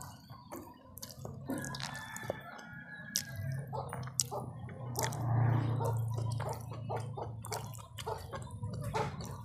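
Close-up wet chewing and lip-smacking of a person eating fried fish and rice by hand: many small irregular mouth clicks. Under them runs a low steady hum that swells about five seconds in.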